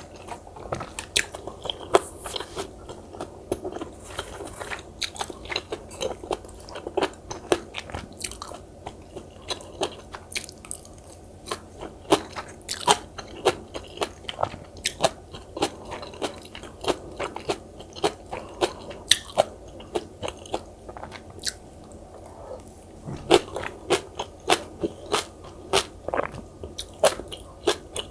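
Close-miked ASMR eating sounds: a person biting and chewing, with frequent sharp crunching clicks, a few a second, easing off briefly past the middle before picking up again.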